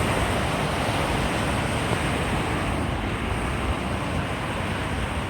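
Steady rush of falling water, an even noise without breaks.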